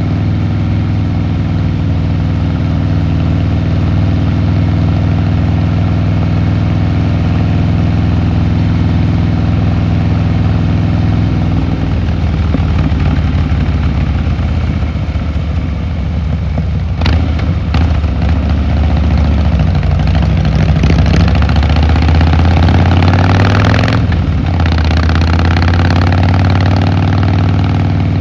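Harley-Davidson Fat Boy Lo's air-cooled V-twin engine and exhaust running steadily at low revs, then pulling harder with rising revs in the second half, breaking off sharply about two-thirds in and settling again.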